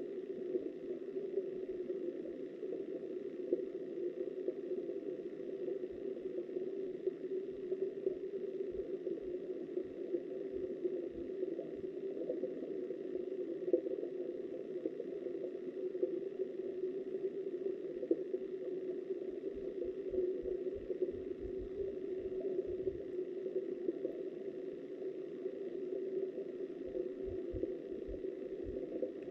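Steady muffled rush of river current recorded underwater by a submerged camera, with scattered low bumps and knocks.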